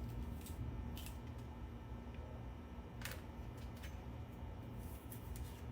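A few short, soft clicks and scrapes of a spoon working seeds out of a halved chile pepper, over a low steady hum.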